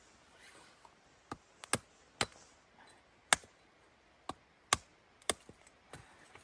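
Wood fire crackling: about ten sharp pops at irregular intervals over a quiet background.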